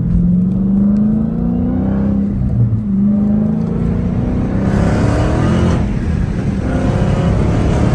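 Straight-piped exhaust of a manual Dodge Challenger Hellcat's supercharged 6.2-litre HEMI V8 accelerating, its note climbing in pitch. The pitch drops about two and a half seconds in, as at a gear change, then climbs again and grows louder and rougher near the middle.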